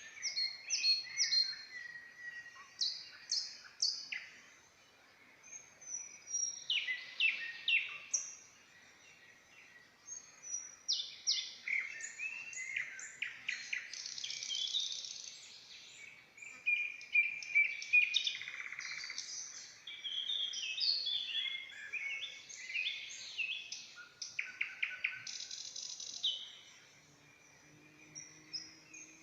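Songbirds singing: a run of short phrases of chirps, trills and whistles, coming in bouts with brief pauses between them.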